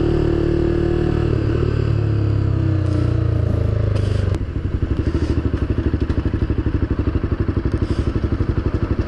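Motorcycle engine running steadily with its pitch sinking slightly, then about four seconds in it drops to a lumpy idle, its firing pulses audible at about ten a second.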